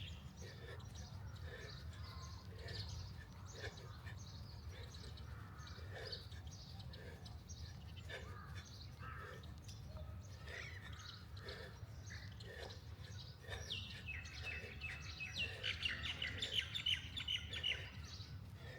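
Wild birds chirping and singing, with a quick run of bright, rapid chirps about three-quarters of the way through, over a steady low rumble.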